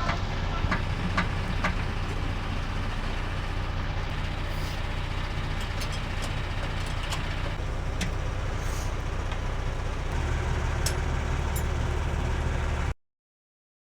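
Diesel truck engine idling steadily, with a few light clicks over it; the low engine note shifts about ten seconds in.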